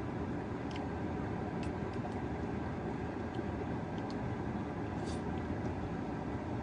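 Steady low rumbling background noise with a few faint short clicks scattered through it.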